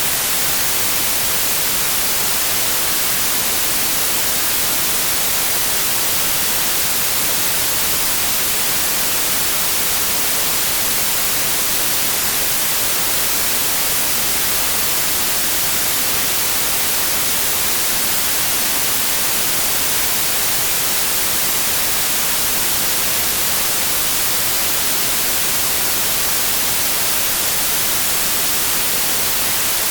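Pure white noise: a steady, even hiss that does not change.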